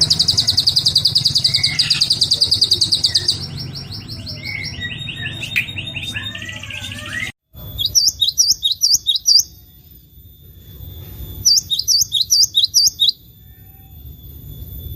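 Recorded songbird calls spliced one after another. First comes a fast, high trill that gives way to a series of falling notes. After an abrupt cut, two bursts of quick rising-and-falling chirps follow a few seconds apart.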